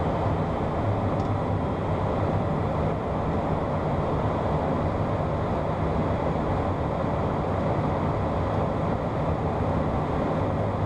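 Steady in-flight cockpit noise of a Beechcraft Premier 1 twin-turbofan business jet: an even rush of engine and airflow noise with a faint low hum underneath.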